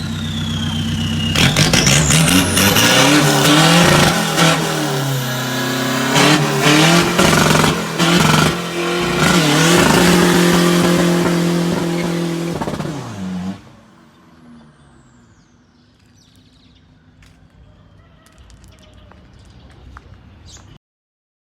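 Turbocharged Isuzu D-Max 1.9-litre diesel with a 44 mm-inlet turbo from a D-Max 3.0, revved hard several times with the turbo whistling. About 13 seconds in the engine cuts off, and the turbo's whistle winds down, falling in pitch for several seconds, with a few light clicks.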